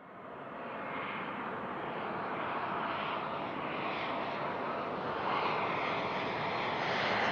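Business jet's turbofan engines: a steady rushing noise with a faint high whine, fading in over the first second and growing slowly louder.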